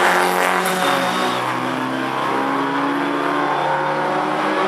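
Rally car engine running hard under load, its note shifting about a second in as it changes speed, then pulling steadily on.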